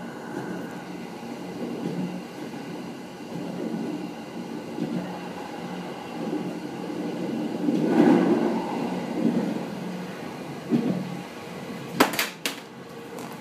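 209 series electric commuter train running along the track, heard from inside the front car: a steady rumble of wheels on rail with a low hum. It swells louder about eight seconds in, and two sharp clacks come near the end.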